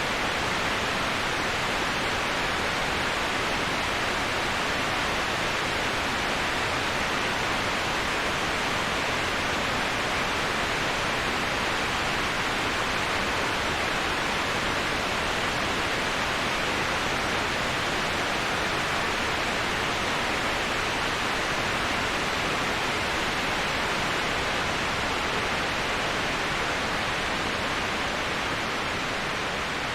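Waterfall white noise: a steady, even rush of falling water, unchanging throughout, with most of its energy in the middle and upper range.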